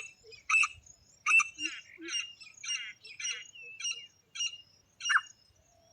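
Grey francolin (teetar) calling: a rapid series of harsh, loud notes repeated about every two-thirds of a second. The notes grow fainter in the middle, and a last loud one comes about five seconds in.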